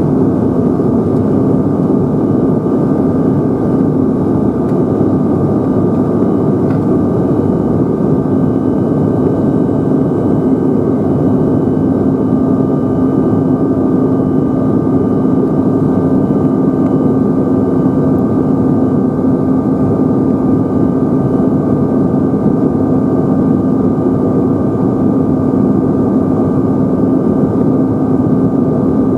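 Steady cabin noise inside a Bombardier CRJ-900 in flight: the rear-mounted turbofan engines and the airflow make a loud, even rush with a constant low hum and a fainter high whine.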